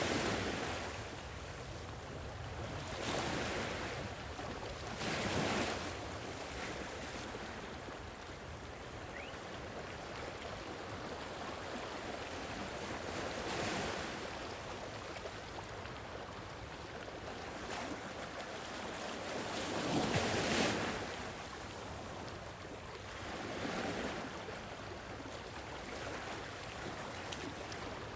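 Sea waves washing onto a shore, each swell rising and falling every few seconds over a steady rush of surf, with the largest around twenty seconds in.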